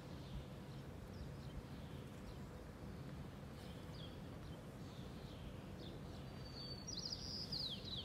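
Birds chirping faintly over a low, steady outdoor rumble, with a quick run of high chirps near the end.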